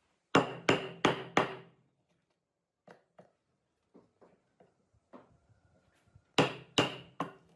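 Hammering on wood: four quick hard blows, a stretch of lighter taps, then four more hard blows near the end.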